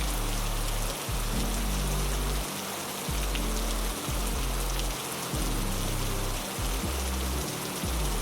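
Heavy rain falling in a steady, dense hiss. Beneath it, low sustained musical notes shift to a new pitch every second or so.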